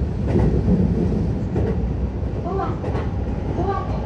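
Keihan 10000 series electric commuter train running on the line: a steady low rumble of wheels on rail, with occasional rail-joint clicks.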